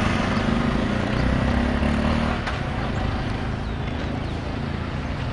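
Street traffic noise: a motor vehicle's engine running close by for about the first two seconds, then fading into the general hum of passing traffic.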